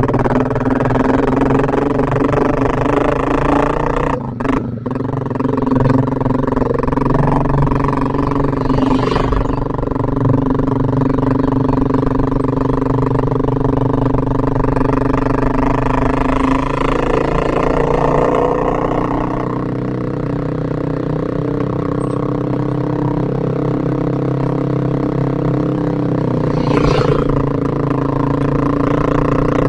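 Yamaha Vixion motorcycle's single-cylinder four-stroke engine running steadily while riding, with a brief dip about four seconds in.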